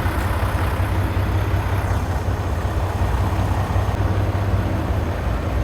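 Semi-truck engine running in a steady low rumble during a slow turn, heard from inside the cab.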